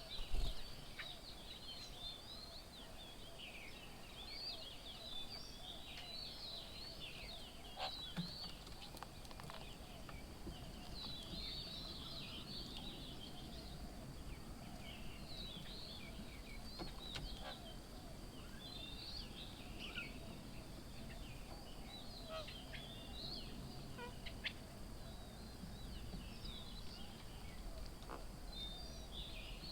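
Birds chirping and twittering outdoors, with many short overlapping calls through the whole stretch over a faint low background hum. A single brief thump comes just after the start.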